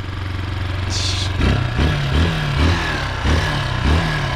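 A 250cc Chinese dirt bike's engine running steadily, then revved in a quick run of about six short blips about a second and a half in, the pitch jumping up and dropping back each time.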